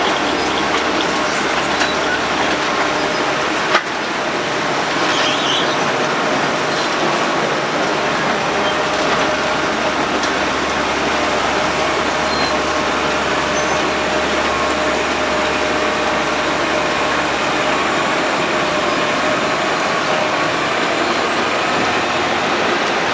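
Road planer (cold milling machine) running steadily as it mills the road surface, a dense, even mechanical noise with a sharp knock about four seconds in.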